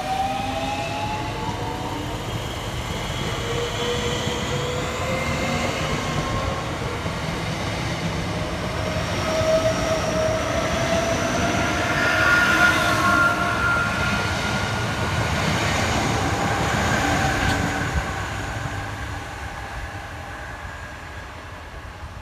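Electric multiple-unit train running past with its traction motors whining in several tones, which rise in pitch over the first couple of seconds as it gathers speed. It is loudest about twelve seconds in and fades over the last few seconds.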